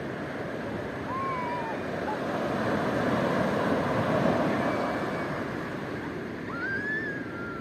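Ocean surf washing onto the shore, one surge swelling to its loudest a few seconds in and then easing.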